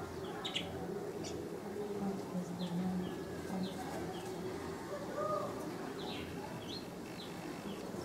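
Small birds chirping in short, high, scattered notes, with a dove cooing low in the background for a couple of seconds near the middle.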